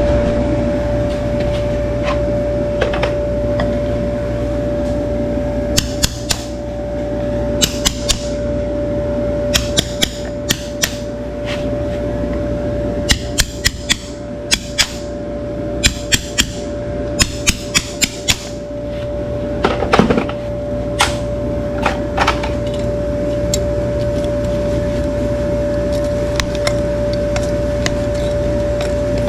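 Hoof-trimming work: sharp clicks and knocks of tools on hoof, coming in quick clusters, over a steady electric hum with one held tone, loudest about two-thirds of the way through.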